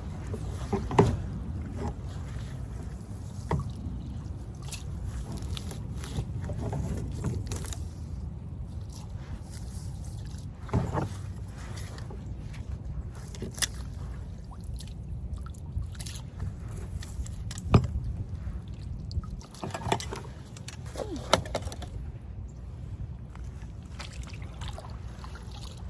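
Sounds of a kayak on a lake: a steady low rumble of wind on the microphone, with scattered knocks and water sounds against the kayak.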